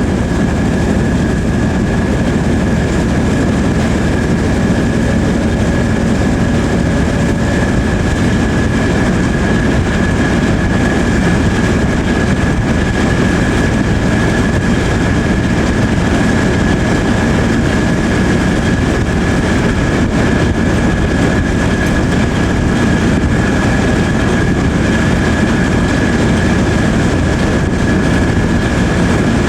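Steady running noise of a diesel-hauled passenger train heard from on board: wheels rumbling over the track with a constant high whine above it.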